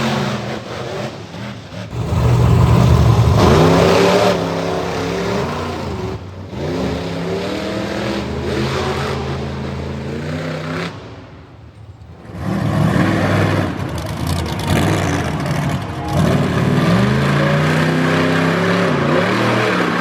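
Monster truck engine revving hard, its pitch rising and falling over and over, with a brief drop in loudness about halfway through.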